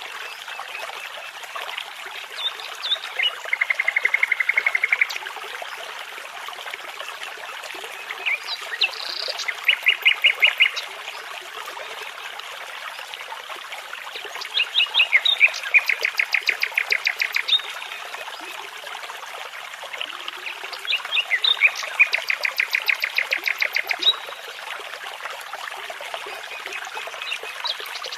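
Nightingale singing in separate phrases of rapid repeated notes with pauses between them, over the steady babbling of a brook.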